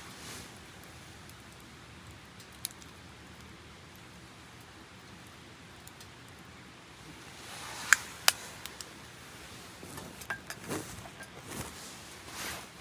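Wood campfire burning, with a few sharp pops and crackles (two loud ones close together just before the middle, smaller ones later) over a steady faint hiss.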